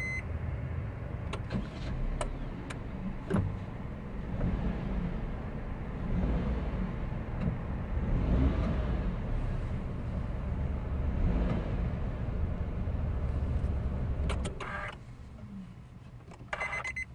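Honda N-WGN's small three-cylinder engine running at idle, with a few sharp clicks in the first few seconds; the engine stops about 15 seconds in. The car's electronic warning chime then beeps repeatedly near the end.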